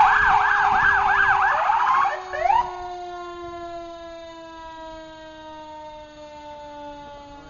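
Fire rescue truck's siren yelping rapidly up and down, then giving a few short rising whoops as it is switched off about two seconds in. A mechanical siren's tone carries on underneath, slowly winding down in pitch and fading.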